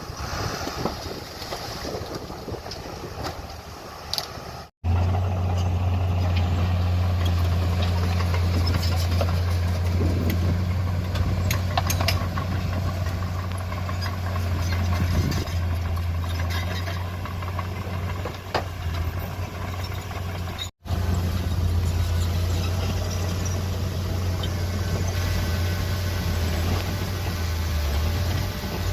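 Heavy diesel earthmoving machinery running with a steady low engine drone and occasional metallic clanks. The first few seconds are mostly wind noise, and the sound cuts out abruptly twice where the footage is edited.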